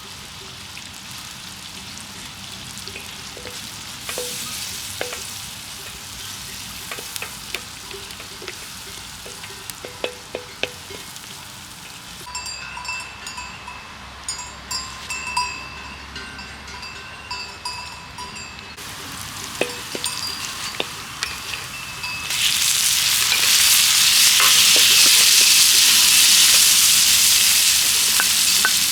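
Food cooking in a pot over a wood fire, with scattered clicks of a utensil against the pot. About three-quarters of the way in, a loud, steady sizzle starts suddenly, as of food going into hot oil.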